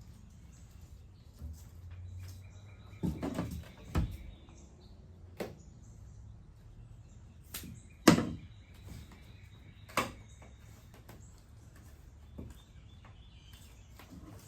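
A series of sharp knocks and clunks from handling the truck's tailgate and its rubber seal, loudest about eight seconds in, with quiet gaps between.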